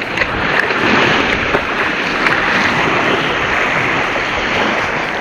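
Steady rushing noise of water and wind.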